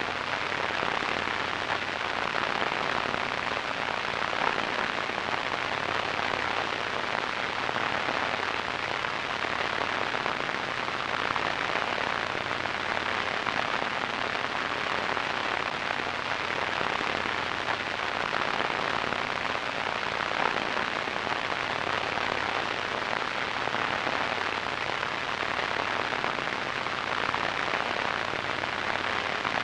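Radio static: a steady, unchanging hiss, strongest in the middle of the range and thin in the lows and highs.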